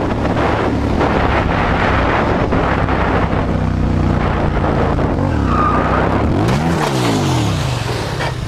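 Motorcycle engine running at speed under heavy wind rush. There is a brief high squeal about five and a half seconds in, and near the end the engine pitch swings up and then down.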